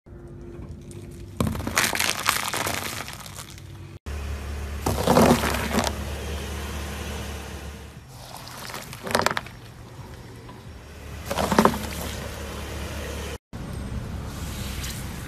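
A car tyre rolling over and crushing objects, in separate short clips: crunching and crumbling of round white objects, then a floral foam brick giving way in several crunchy bursts, the loudest about a second in and near 9 and 11.5 seconds, over a low steady hum.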